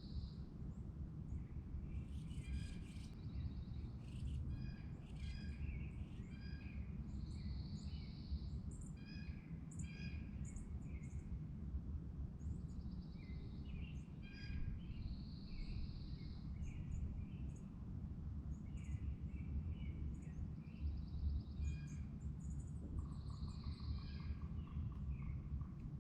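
Songbirds singing, one bird repeating the same short phrase, a brief trill and then a high smooth note, about every eight seconds, with scattered chirps between, over a steady low rumble.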